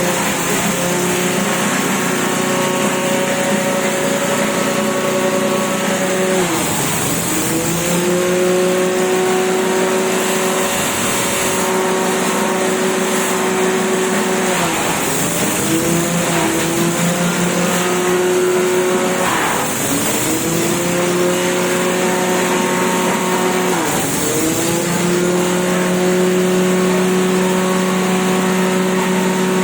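Engine-driven grass chopper running steadily. Its engine note dips sharply in pitch about five times, a few seconds apart, and climbs back each time.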